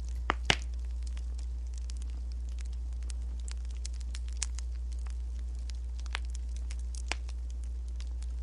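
Wood fire crackling: a continuous run of small snaps, with two sharper pops about half a second in and a few more scattered later, over a steady low hum.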